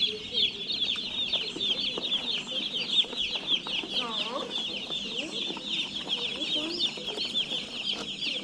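A brooder full of Cornish cross chicks peeping all at once: a dense, steady chorus of short, high, falling cheeps.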